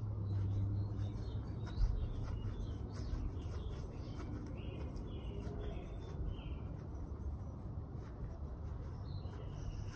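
Small birds chirping in short repeated calls over a steady outdoor background hum, with a single sharp thump about two seconds in.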